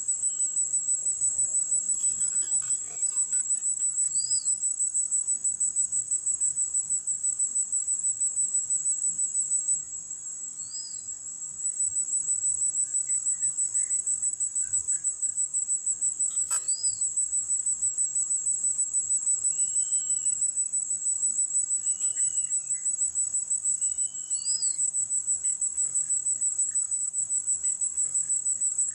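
A steady, high-pitched insect drone that pulses rapidly, falling away for a moment about ten seconds in. Short chirps sound over it every few seconds, with a few softer arching calls in the second half.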